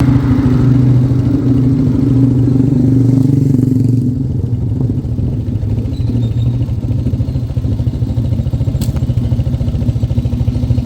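An engine running steadily at an even speed, close and loud, with one short click about nine seconds in.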